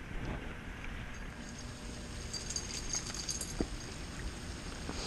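Steady hiss of heavy rain, with a few light knocks.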